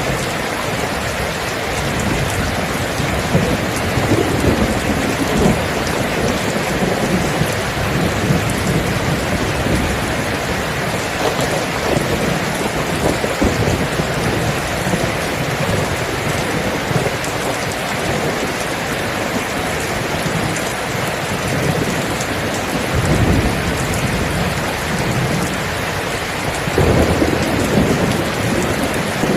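Steady heavy rain with thunder rumbling low under it, swelling several times, most strongly near the end.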